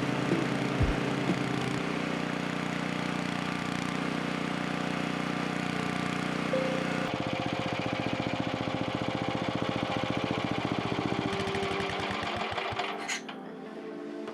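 Robin EY-series single-cylinder four-stroke generator engine running on a replacement carburetor; about halfway through its sound changes, then the firing strokes slow and spread apart and the engine coasts to a stop near the end.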